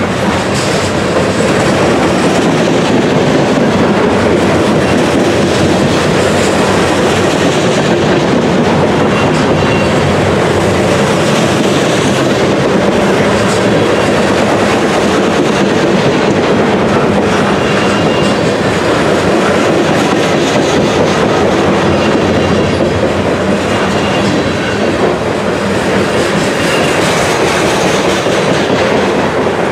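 Loaded freight cars carrying trash containers rolling steadily past at close range, with the continuous rumble and clickety-clack of their wheels over the rail. Brief faint wheel squeals come a few times.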